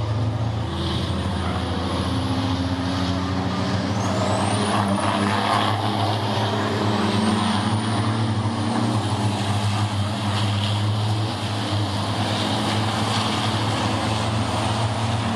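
Racing trucks' turbo-diesel engines running on the circuit: a steady, continuous engine drone, with a few high rising whistles over it.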